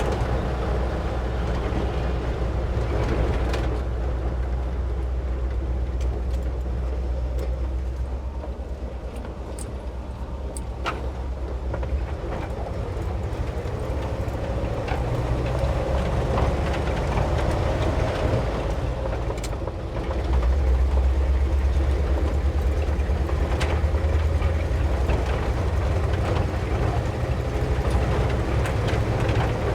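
Ford F600 truck running down the road, a steady low engine drone that eases off a little in the middle and gets louder again about twenty seconds in.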